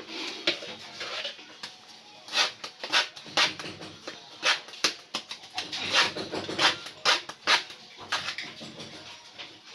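Irregular sharp taps and knocks, about one or two a second, some coming in quick runs.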